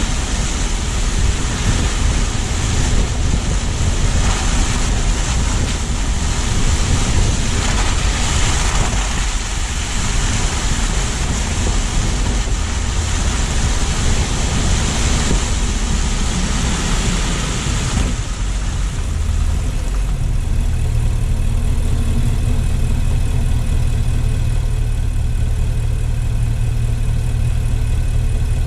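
Car on the move with steady tyre and road noise; about 18 seconds in the hiss falls away as the car comes to a stop, leaving the engine idling with a steady low hum.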